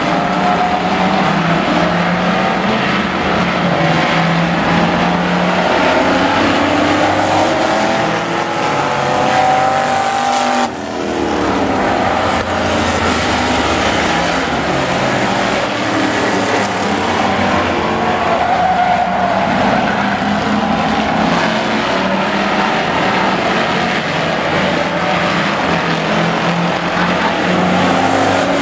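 Several demo-race pickup trucks running hard around an oval track, their engines overlapping and revving up and down as they lap. The sound breaks off abruptly for a moment about ten seconds in.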